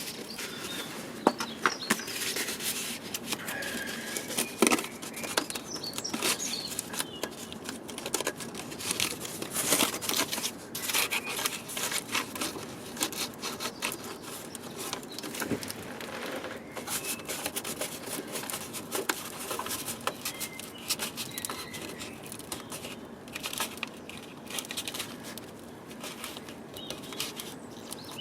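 Cardboard being handled, pressed and creased into shape for a template, with irregular rustling, crinkling and tearing and many scattered clicks and knocks.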